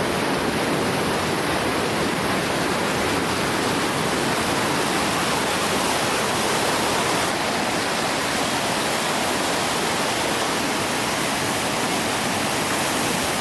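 Rushing whitewater of a river rapid: a steady, loud roar of churning water with no breaks.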